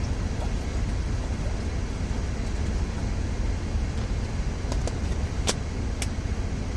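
Steady low rumble of an idling semi truck's engine, with a few sharp clicks about five to six seconds in.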